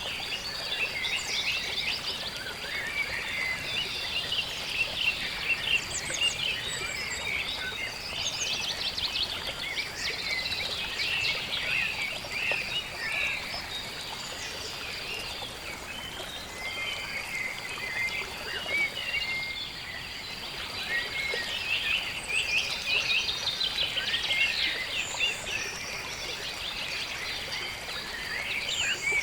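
Marsh ambience: many birds chirping and trilling at once in a dense, overlapping chorus, thinning out for a few seconds midway before picking up again.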